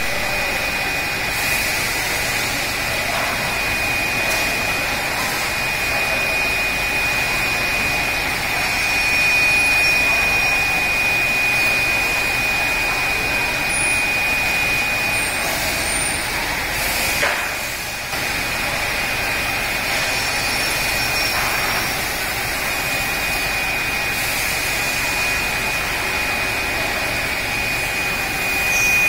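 CW-1520-2 two-spindle CNC wood lathe running and turning wood: a constant rushing machine noise with a steady high whine on top, briefly dropping about two-thirds of the way through.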